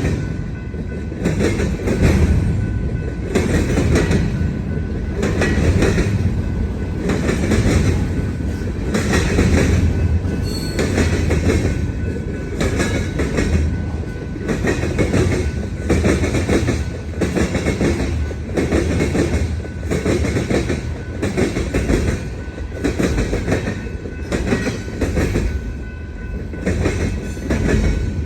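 Freight cars of a long Union Pacific manifest train rolling past with a steady rumble and a regular clatter of wheels over the rail joints and diamond crossing, about one hit a second. Faint steady wheel squeal runs underneath.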